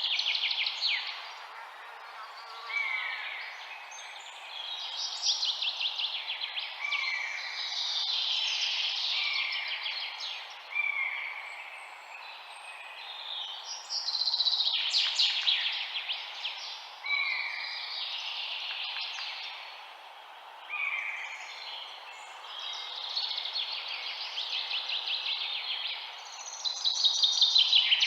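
Several songbirds chirping and singing in overlapping phrases every second or two: fast trills and short falling notes, over a steady background hiss.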